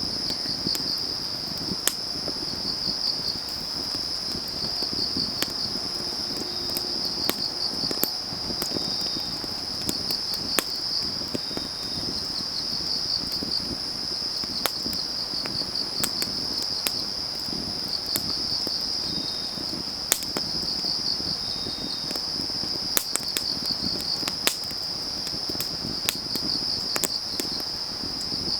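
Firewood burning, crackling with sharp irregular pops over a low rumble, against a steady pulsing chorus of crickets singing on an autumn night.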